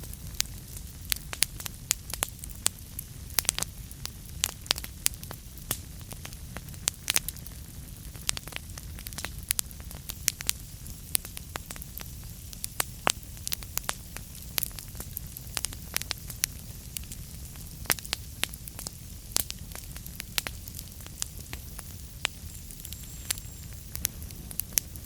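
Wood fire burning in a fireplace, with irregular sharp crackles and pops several times a second over a low, steady rumble.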